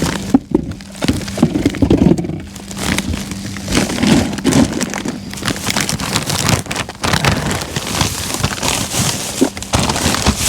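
Plastic food packaging crinkling and crackling as it is handled, over rain pattering steadily, with a faint steady hum underneath.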